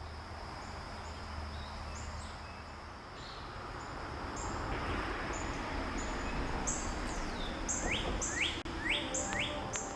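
Birds chirping and calling over a steady outdoor hiss, with a thin steady high tone underneath; about eight seconds in a bird gives four quick sweeping calls in a row.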